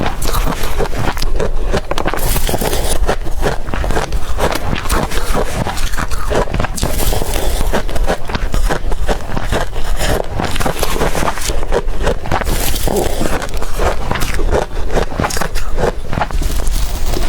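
Close-up crunching of blender-crushed ice being bitten and chewed, a dense, continuous run of sharp crunches.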